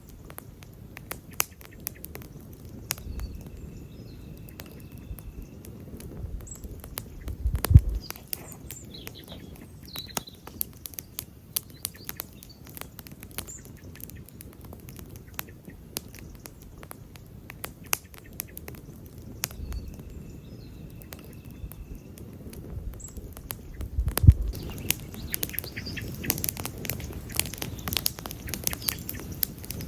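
Wood campfire crackling, with a steady stream of sharp snaps and pops over a low rumble of flames, and two louder pops about 8 and 24 seconds in. Faint high chirps come through now and then.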